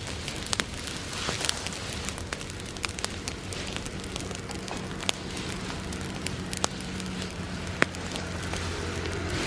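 Bonfire of dried summer grass crackling, with frequent sharp pops over a steady hiss of flame. A low steady hum comes up under it in the second half.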